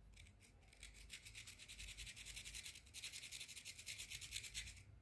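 A parrot's beak rapidly nibbling and scraping at a cream biscuit: a faint, dry rasping made of many quick, even strokes that stops shortly before the end.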